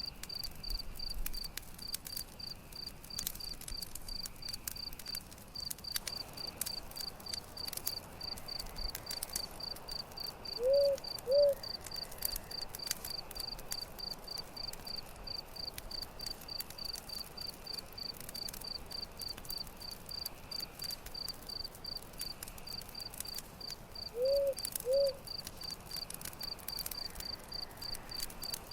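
Crickets chirping steadily, about three chirps a second, over a campfire's scattered crackles. Twice, a louder low two-note call sounds.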